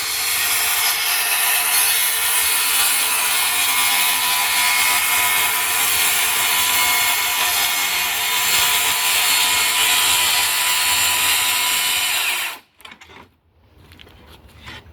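Power saw cutting through plywood, running steadily, to cut out a door opening. The saw stops suddenly near the end, followed by a few light knocks.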